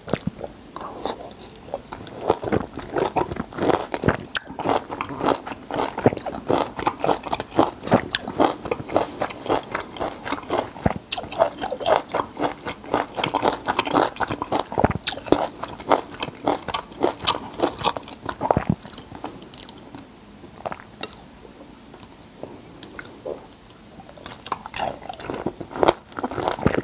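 Close-miked wet chewing and biting of peeled citrus fruit (lemons and limes with the white pith left on), a dense run of small crunches and squelches. The chewing thins out and goes quieter for a few seconds after the middle, then picks up again near the end.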